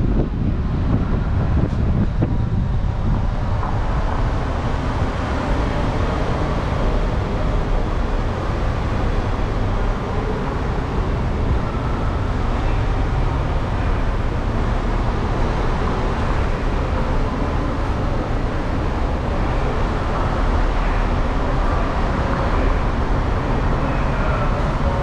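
Steady vehicle and road noise with a heavy low rumble, without distinct passes, revs or hits.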